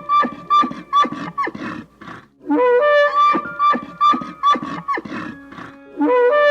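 Bull elk bugling: a call that climbs from a low note into a long, high, whistle-like tone, then breaks into a series of short grunting chuckles. It comes twice, and a third bugle starts near the end.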